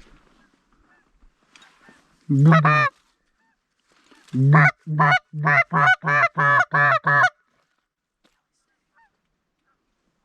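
Goose call blown by a hunter, imitating a Canada goose: one long honk, then a quick run of seven short clucks, about two a second.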